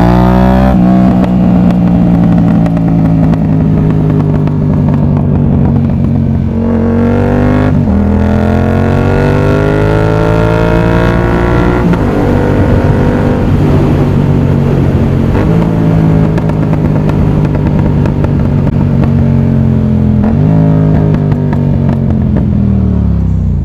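Yamaha MT-07's CP2 parallel-twin engine, breathing through an aftermarket exhaust, heard from the rider's seat while riding. The engine note climbs in pitch several times under acceleration and drops sharply at each gear change, with steadier stretches in between.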